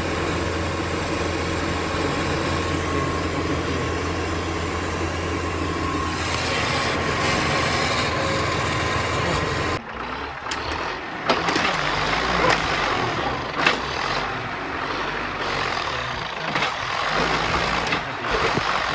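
A heavy vehicle engine running steadily with a low hum. About ten seconds in the sound cuts abruptly to a noisier stretch of engine and machinery noise with several sharp knocks.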